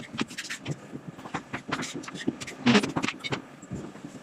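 Irregular knocks, clicks and clatter of hard objects, with one louder knock a little under three seconds in.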